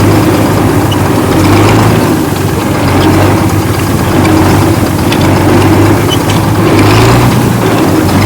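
Engine of a 1975 International 55 hp tractor idling steadily, with small mechanical ticks over the hum.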